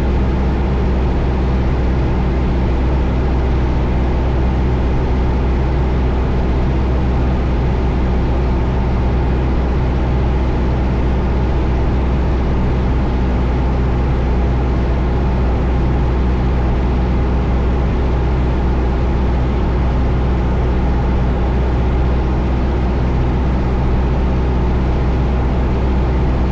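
Cessna Skyhawk's four-cylinder piston engine and propeller in cruise flight, a steady unbroken drone.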